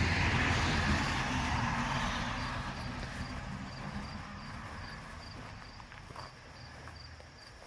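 A car passing on a nearby road, its tyre and engine noise loudest at first and fading away over several seconds. A cricket chirps faintly in an even rhythm underneath.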